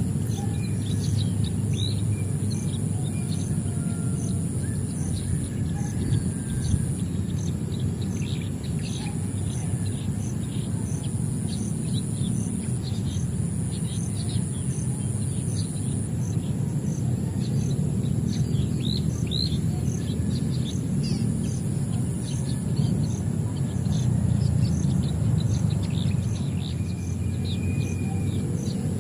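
Birds chirping throughout in many short, quick calls. Underneath runs a steady high-pitched buzz that pulses about twice a second, and a steady low noise.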